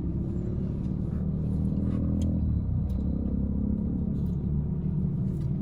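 Steady low rumble of a car with its engine running, heard from inside the cabin.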